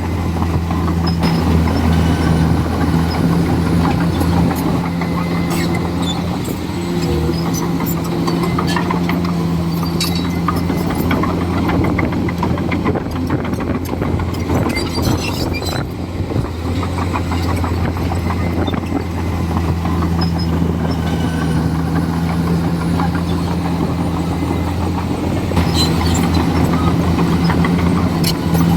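Komatsu D41E bulldozer's diesel engine running steadily at working revs, its pitch dipping briefly a few times, with scattered sharp clicks and knocks over it.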